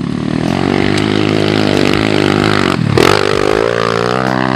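Small pit-bike engine revving as it rides: the pitch wavers and sags, drops out briefly about three seconds in, then climbs steadily as the throttle opens again.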